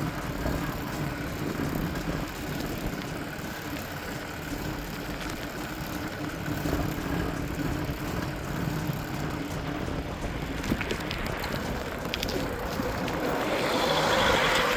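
Steady wind and road noise from riding a bicycle along a street. Near the end a car, a Mazda 3, drives past and grows louder.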